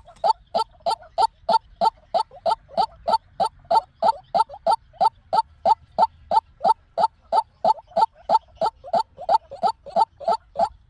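White-breasted waterhen calling: a long, steady series of short, repeated notes at about four a second, even in pitch and loudness.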